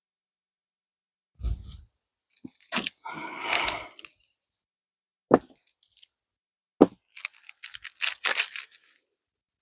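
Packaging being torn and crinkled by hand in short bursts of tearing and crackling, with two sharp knocks in the middle and a busier run of crackling near the end.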